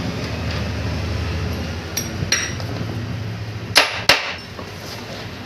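A steady low hum with a few light metallic clicks, then two sharp knocks about a third of a second apart, after which the hum stops.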